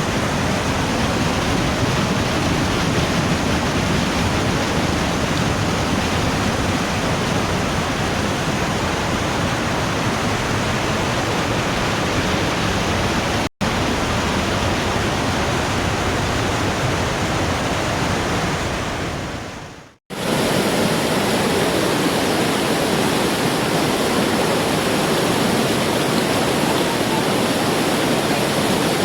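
Putna waterfall's water rushing in a steady, even roar. It cuts out briefly about halfway, then fades to silence about two-thirds through and comes back with a slightly different tone.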